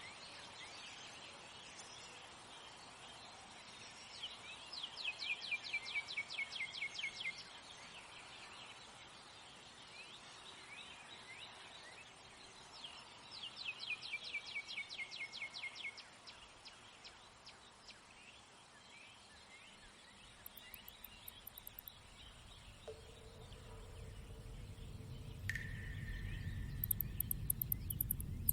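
Bird song over a faint steady outdoor hiss: twice, a bird gives a fast trill of sharply descending chirps lasting about three seconds. Near the end a low rumble and a couple of held tones come in.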